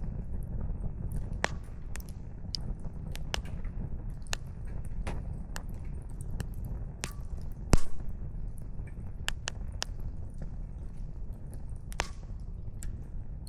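Wood campfire crackling, with scattered sharp pops of burning firewood over a steady low rumble, and one much louder pop about eight seconds in.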